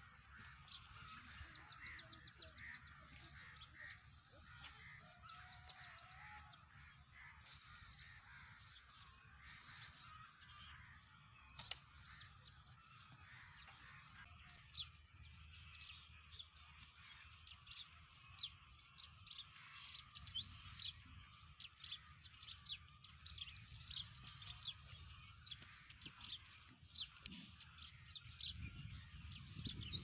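Small birds chirping and calling from the trees, faint at first and busier in the second half, with a single sharp click about a third of the way through.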